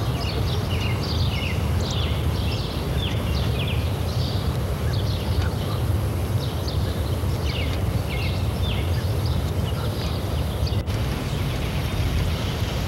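Birds chirping, many short quick calls that sweep downward in pitch and keep coming, over a steady low rumble.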